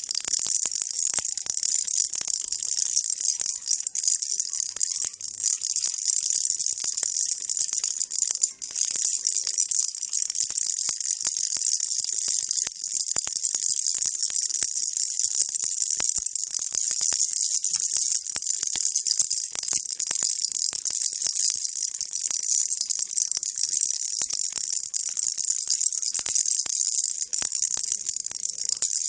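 Baby rattle shaken without pause: a steady, dense, hissy rattle of many tiny clicks.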